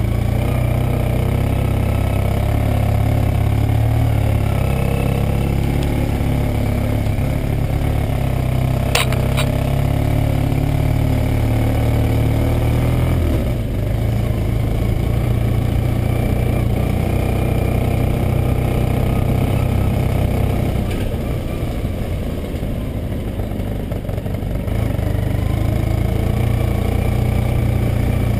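Yamaha Super Ténéré's parallel-twin engine running at low speed as the motorcycle rides a dirt forest track. There is a sharp knock about nine seconds in. The engine note changes about thirteen seconds in and eases off for a few seconds past the twenty-second mark before picking up again.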